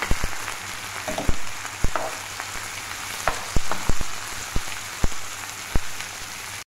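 Diced eggplant frying with onion and garlic in a frying pan: a steady sizzle, with the spoon that stirs it knocking sharply against the pan at irregular intervals, roughly twice a second. The sound cuts off suddenly just before the end.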